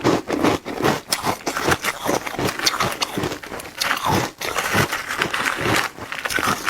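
Shaved ice being bitten and chewed close to the microphone: quick, irregular crunches several times a second, with wet mouth sounds between them.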